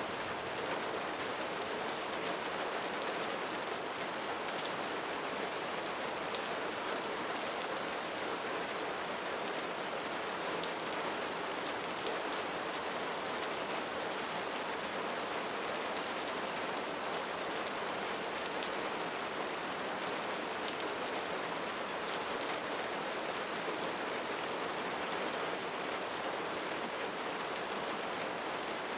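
Steady rain falling and pattering on leaves, a dense even hiss dotted with fine drop ticks.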